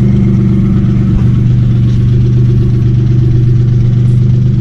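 A vehicle engine running at a steady speed: a loud, continuous drone that holds one pitch without revving up or down.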